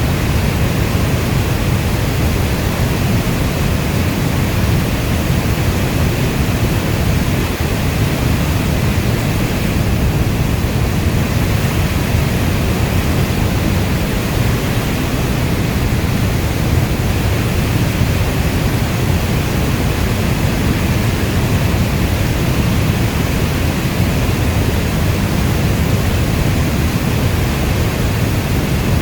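Steady heavy rain, a dense even rush with most of its weight in the low end and no separate drops, thunder or changes.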